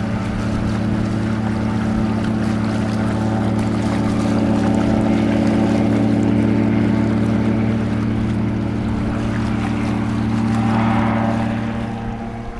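Engine and propeller of a homemade light aircraft running steadily at high power, a constant droning note with rushing noise over it. It eases off a little near the end.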